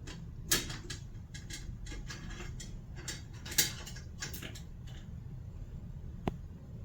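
Cat chasing and batting a thrown toy: a run of light clicks and knocks, with two sharper knocks about half a second and three and a half seconds in, and a last single knock near the end.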